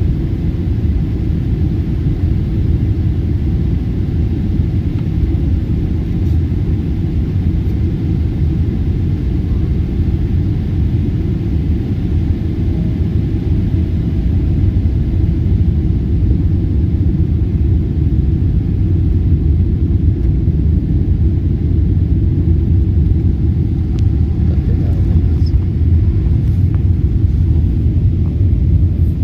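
Steady low rumble of airliner cabin noise: engines and airflow heard from inside the passenger cabin of an Emirates jet.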